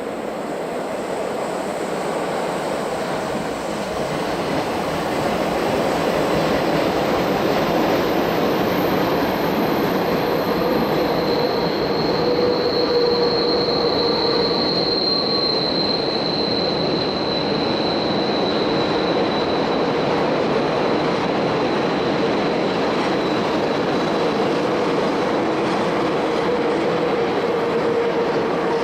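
Train running on the Semmering mountain railway: a steady rolling rumble that grows louder over the first several seconds, with high-pitched steady squealing tones over it, clearest around the middle, typical of wheels squealing on the line's tight curves.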